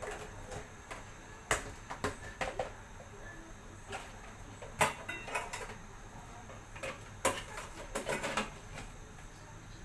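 Scattered light clicks and knocks, several of them spread irregularly, over a low steady hum.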